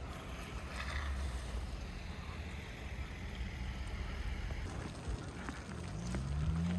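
Steady low rumble of a vehicle engine outdoors in falling snow, over a hiss of wind and snow. Near the end the engine's pitch rises and then falls.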